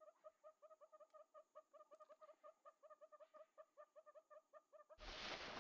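A bird's rapid, steady series of short, faint call notes, about six a second. About five seconds in, a louder burst of noise cuts in over it.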